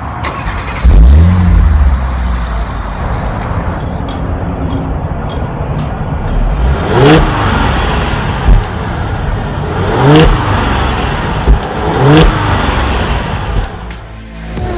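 Audi SQ5's supercharged 3.0-litre V6 starting up with a loud flare about a second in and settling to idle, then revved three times, each rev rising and falling.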